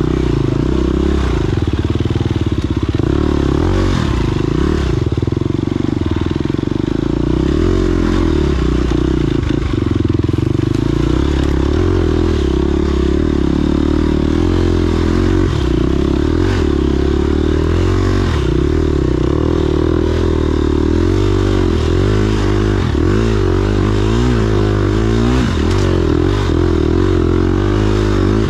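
Motorcycle engine running under load, its revs rising and falling, with clearer wavering pitch swings in the last third.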